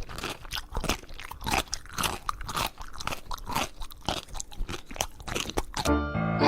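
Crunchy chewing, a pet biting into dry, hard food, at about three crunches a second. Near the end a pitched sound cuts in as the chewing stops.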